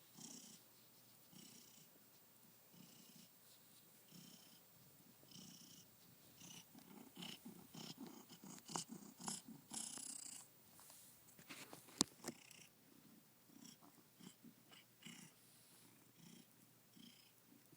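House cat purring softly in regular pulses about a second apart, louder and busier for a few seconds in the middle, with one sharp click about twelve seconds in.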